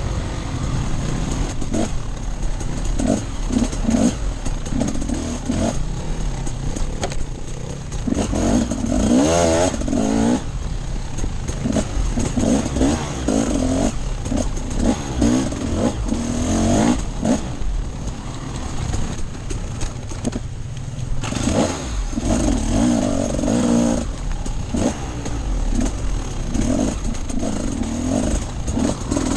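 Off-road enduro motorcycle engine under way, revving up and down over and over as the throttle is opened and shut. It eases off briefly about twenty seconds in.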